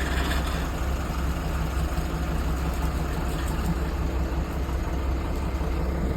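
Heavy machinery engine running steadily with a low, even hum that does not rise or fall.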